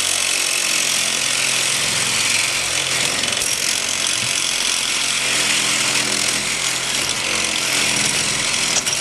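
Reciprocating saw (Sawzall) running steadily as it cuts through metal tips on a scrapped refrigeration chiller.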